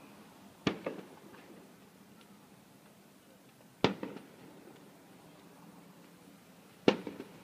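Aerial firework shells bursting: three sharp bangs about three seconds apart, each followed by one or two smaller bangs.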